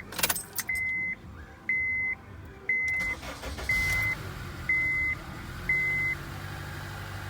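A Honda Accord's dashboard warning chime beeping six times, evenly about once a second, with a few clicks near the start. A low steady hum sets in underneath about halfway through.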